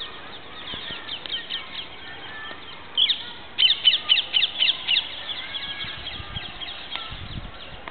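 Parrots calling in many rapid, high-pitched, falling squawks, with a louder burst of calls from about three to five seconds in.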